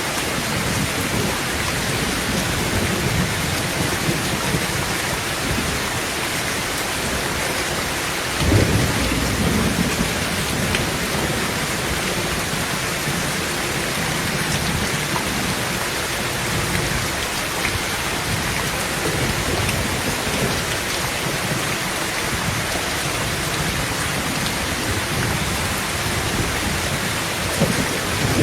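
Heavy rain falling steadily on a tin roof, with a thunder clap and rumble about a third of the way in and another thunder rumble starting near the end.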